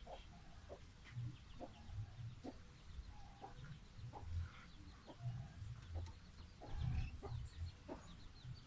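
Birds making faint, short, scattered calls over uneven low thumps.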